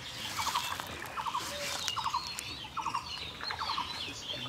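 Small birds chattering: a short, rapid trill repeated about once a second, with thin higher chirps between.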